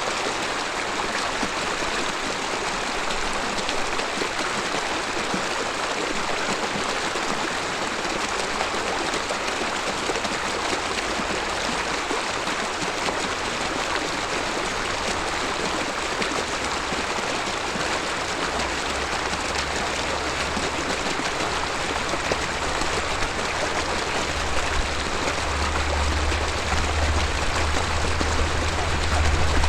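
A river babbling in a steady, even rush of water. A low rumble builds underneath it over the last ten seconds or so.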